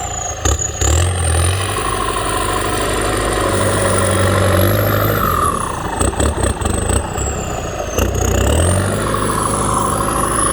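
Kubota tractor diesel engine working under plowing load, its pitch sagging and recovering a couple of times, with a few sharp knocks.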